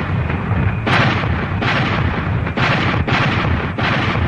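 Sci-fi battle sound effects: spaceship cannon fire and explosions, a run of heavy blasts about one a second over a constant low rumble.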